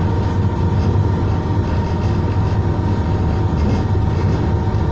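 Running noise inside a Class 221 Super Voyager diesel-electric train travelling fast: a steady, loud low rumble with a thin steady whine and a hiss of rail and air noise over it.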